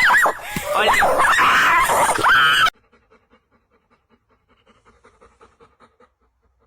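A dog whining in loud, high sliding cries. Then a sudden cut, and a dog panting faintly and quickly.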